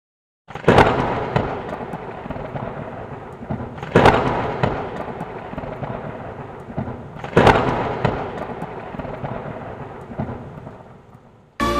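Thunderstorm: three sharp cracks of thunder about three seconds apart, each rumbling away, over a steady hiss of rain that fades out near the end.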